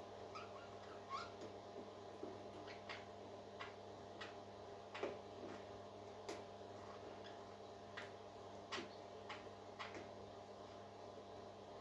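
Parakeets giving short, sharp chirps and clicks at irregular spacing, about one or two a second, over a steady low hum.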